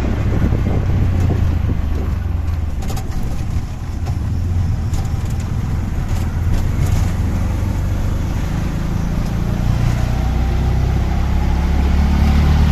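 Auto-rickshaw engine running steadily under way, heard from on board, getting somewhat louder toward the end, with road and traffic noise around it.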